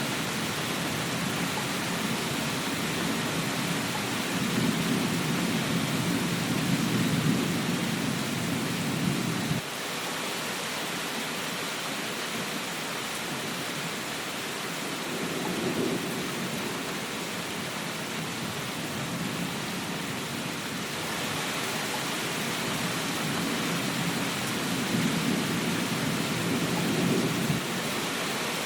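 Steady rain with rolls of thunder rumbling under it, three times; two of the rolls cut off suddenly.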